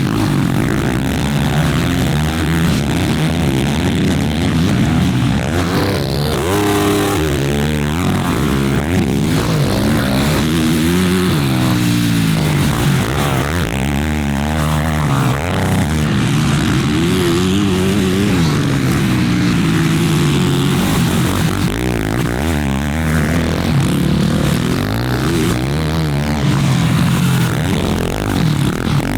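Stock Yamaha 450 four-stroke single motocross engines revving hard and backing off over and over, the pitch sweeping up and down every few seconds as the bikes accelerate, shift and brake around the track.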